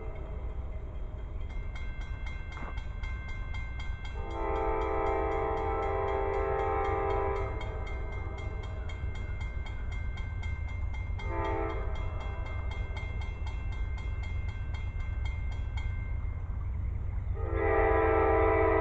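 Amtrak locomotive's multi-note chime horn sounding the grade-crossing signal: a long blast, a short one, then another long one starting near the end, over the low rumble of the approaching train.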